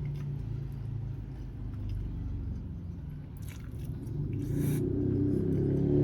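Steady low rumble, with two short crunchy bites of grilled chicken a little over halfway through.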